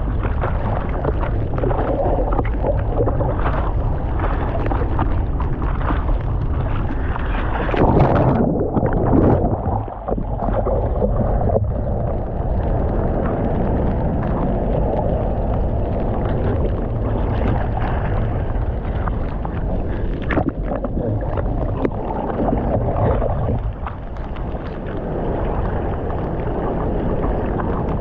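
Surf water rushing and sloshing around a camera in the waves, with wind buffeting the microphone. A louder surge comes about eight seconds in.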